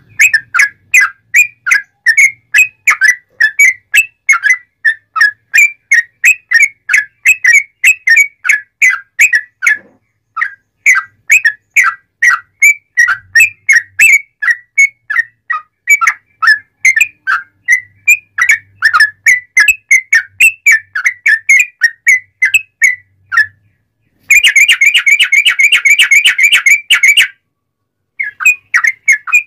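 Yellow-vented bulbul (trucuk) singing a loud, continuous song of short whistled notes, about four a second, broken by two short pauses. Near the end it switches to a dense, buzzy trill for about three seconds before the notes resume.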